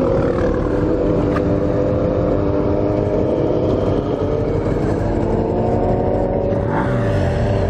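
Motorcycle engine running steadily, its pitch drifting slowly up and down, over a steady rush of wind or road noise.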